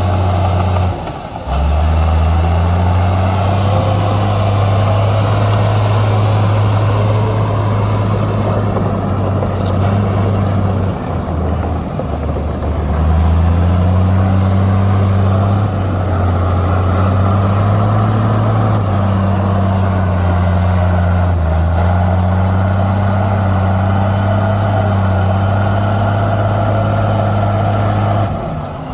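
Heavy diesel engine of earthmoving machinery running steadily at working revs, its low drone stepping down and back up in pitch a few times, with a brief dip about a second in and again near the end.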